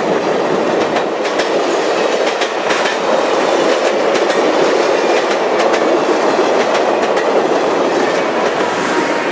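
Passenger cars of a steam-hauled excursion train rolling past close by, a steady loud rumble with frequent irregular clicks of the wheels over the track. A faint high squeal comes in near the end.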